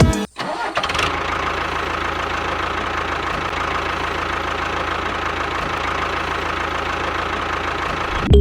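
Tractor engine running steadily at idle with a fast, even knock, starting about a second in.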